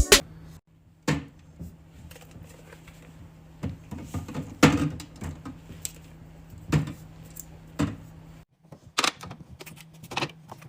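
Scattered clicks and knocks of containers and food items being handled and set down in a refrigerator, over a faint steady hum.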